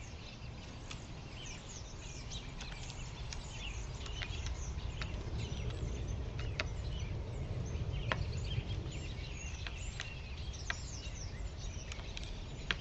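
Small backyard birds chirping and twittering over and over, several at once, over a steady low rumble, with sharp clicks now and then.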